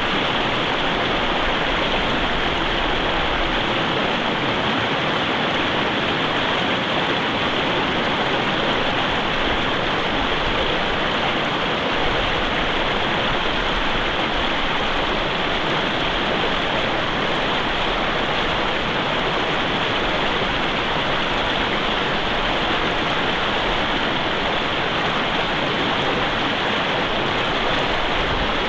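Mountain river rushing over rocks in a steady, even wash of running water.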